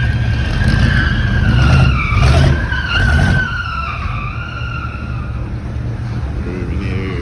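Car tyres squealing in a long, wavering screech over a revving engine, loudest about two to three seconds in and easing off after that.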